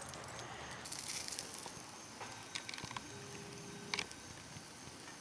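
Butter sizzling softly in a skillet around a frying fry pie on low heat, a steady fine hiss with a few small clicks and crackles, and a short steady tone about three seconds in.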